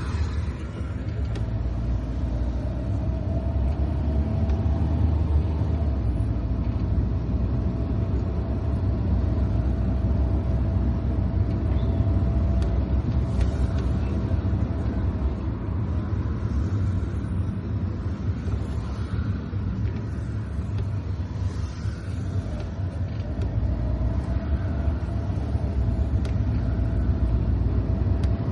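Car driving on wet city roads: a steady low rumble of engine and road noise with tyre hiss, and a faint steady whine that fades in and out.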